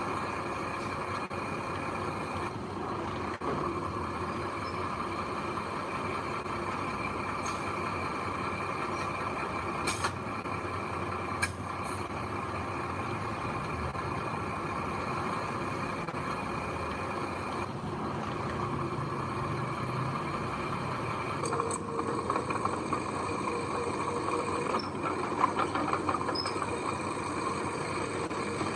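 Heavy diesel earthmoving machinery running steadily, with a few short sharp knocks.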